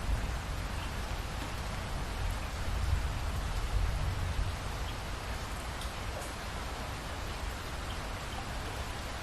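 Steady rainfall with scattered individual drops ticking. A low rumble of distant thunder swells about two seconds in and fades away by the middle.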